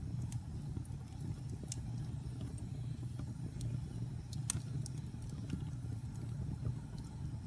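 Wood fire burning in a fireplace: a steady low rumble with scattered sharp crackles and pops, the loudest about four and a half seconds in.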